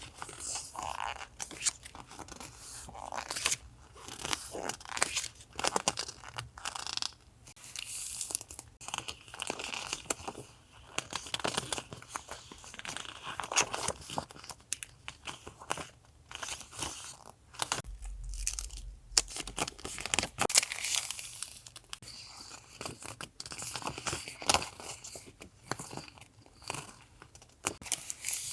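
Paper and plastic sticker packaging being handled: irregular crinkling, rustling and crisp clicks, with a dull low thump about two-thirds of the way through.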